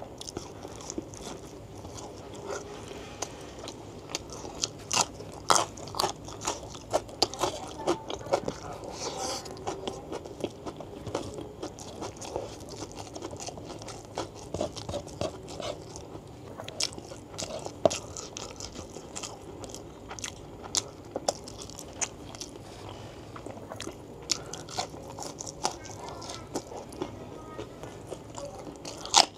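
A person chewing and biting food close to the microphone: irregular wet mouth clicks and crunches.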